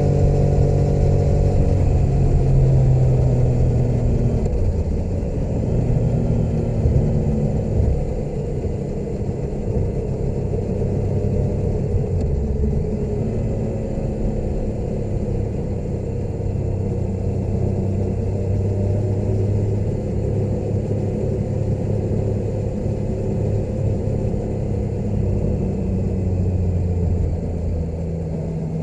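Motorcycle engine running while under way, its pitch rising and falling with throttle changes. Louder over the first several seconds, then steadier from about eight seconds in.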